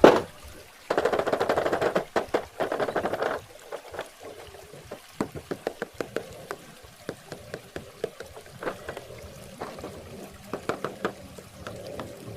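Toy packaging being handled and opened: a sharp click at the start, then a couple of seconds of dense rapid crackling, followed by scattered plastic clicks and taps.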